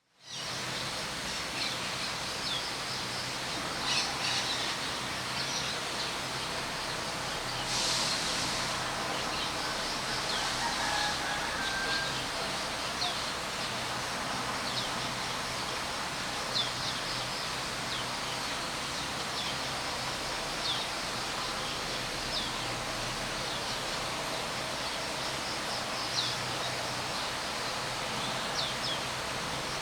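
Birds calling: many short, high, downward chirps repeat throughout over a steady background hiss, with a brief lower whistled phrase about eleven seconds in.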